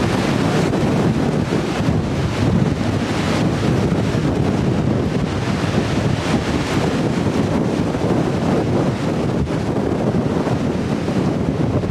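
Strong gusting wind at 30 to 35 mph, buffeting the microphone and rushing through tree limbs.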